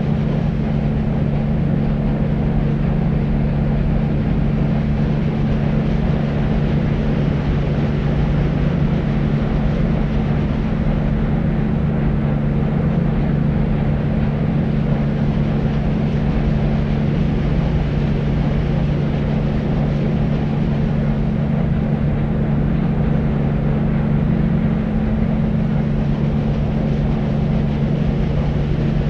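Deep white noise: a steady, even rush weighted toward the low end, with a steady low hum running through it and no change.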